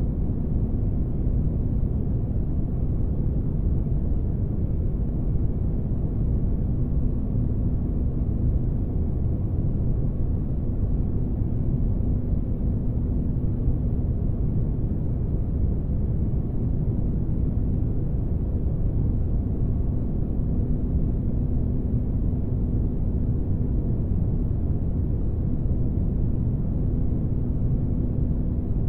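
Sci-fi spaceship-interior ambience: a steady, deep rumbling noise with a faint hum that comes and goes within it.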